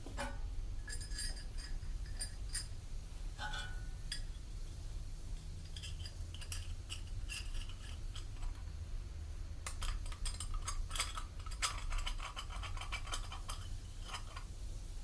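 Light metallic clinks and taps, scattered at first and coming thick and fast in the last third, over a steady low hum.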